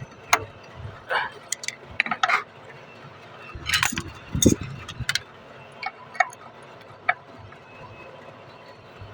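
Scattered metallic clinks and knocks of tools and fittings being handled during air-conditioner repair work. There is a cluster of sharper knocks about four seconds in, then a few isolated clicks.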